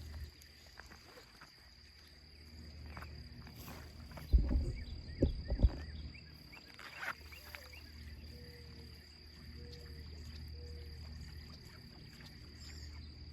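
Crickets and other insects chirring steadily outdoors, with a cluster of loud low thumps about four to six seconds in.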